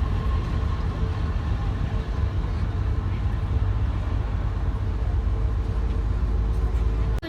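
Ferry underway: a steady, loud low rumble of the boat's engines and passage through the water, with a faint steady hum above it. It cuts off abruptly just before the end.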